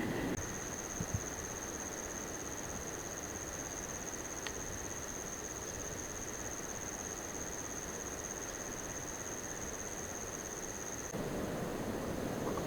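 An insect calling in one steady, unbroken high-pitched trill over a soft even hiss. The trill stops abruptly about 11 seconds in, and a louder, lower rushing noise takes over.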